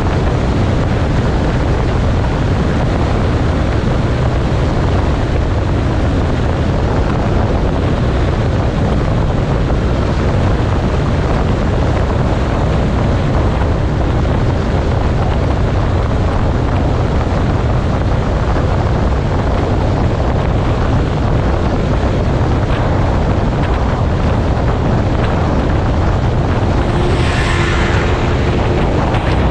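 Motorcycle on the move: steady rush of wind buffeting the microphone over the bike's running and road noise. About 27 seconds in, a brief pitched sound cuts through over the rush.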